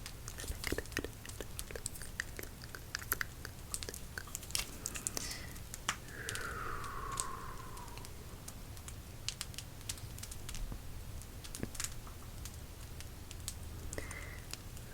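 Crackling fire: irregular sharp pops and snaps over a steady low rumble, with one falling tone about six seconds in.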